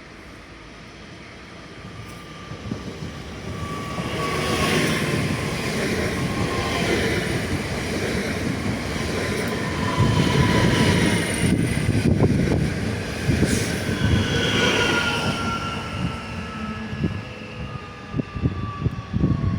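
Regional passenger train pulling into a station, growing louder over the first several seconds as it approaches, with a rumble and high squealing tones that slowly fall in pitch. Irregular clicks and knocks come from the wheels near the end.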